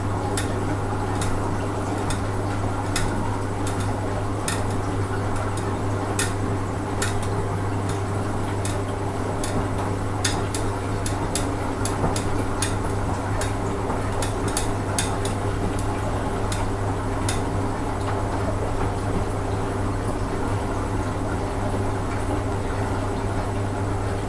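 Hoover Ecologic 800 automatic washing machine running on its rinse cycle: a steady low hum under irregular light clicks and clinks from the turning drum. The clicks thin out about two-thirds of the way through.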